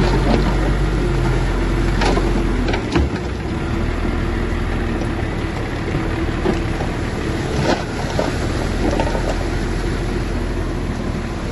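Shantui bulldozer's diesel engine running steadily under work, with a few sharp metallic clanks.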